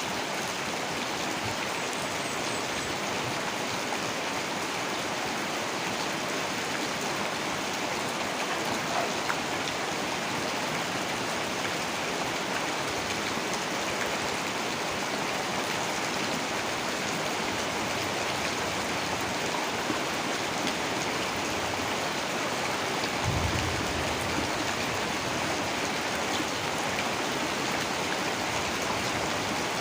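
Heavy rain falling steadily, an even hiss of dense raindrops. A brief low rumble comes about three-quarters of the way through.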